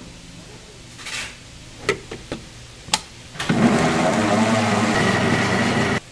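A few knocks and clicks, then a machine with a motor runs loudly for about two and a half seconds and cuts off abruptly.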